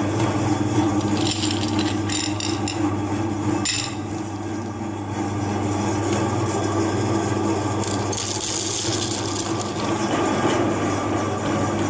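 Electric meat grinder running with a steady motor hum, with brief bursts of scraping and crunching about a second in and again near the end as food is forced through it.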